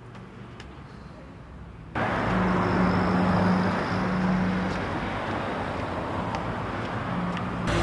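A faint low hum, then an abrupt cut about two seconds in to loud, steady road-traffic noise with a low engine drone.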